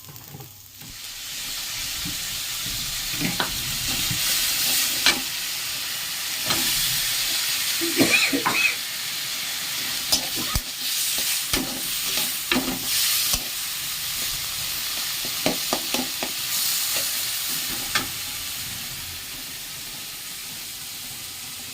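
Small fish frying in hot oil in a kadai: a steady sizzle that swells about a second in. Short knocks of a utensil stirring against the pan come every few seconds.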